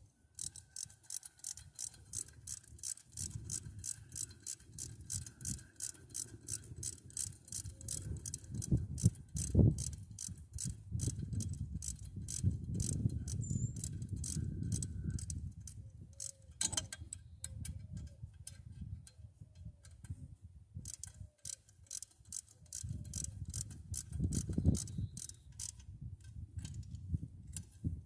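Hand ratchet wrench clicking in quick even strokes, about four clicks a second, as exhaust manifold bolts are run in on a Ford V8, with a short pause about two-thirds of the way through. A low rumble swells and fades behind it.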